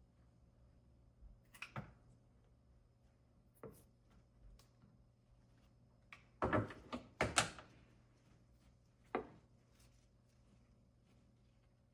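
Small objects being handled and put down: single light knocks about two and four seconds in, a louder double clatter near the middle, and one more knock about nine seconds in.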